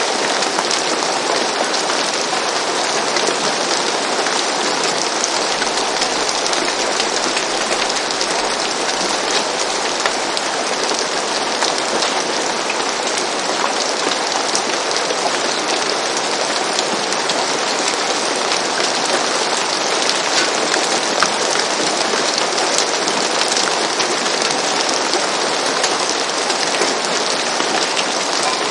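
Steady, even rain, with the patter of many individual drops.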